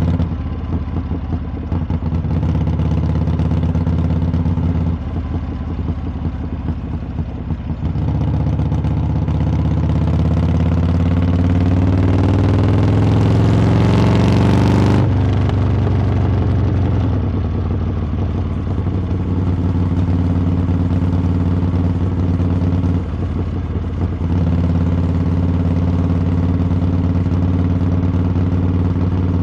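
Harley-Davidson V-twin engine and exhaust while riding: a steady low-pitched running, then rising in pitch under throttle for several seconds about halfway through, cutting off sharply before settling back into steady cruising. Brief dips in the engine note come near the start and again near the end.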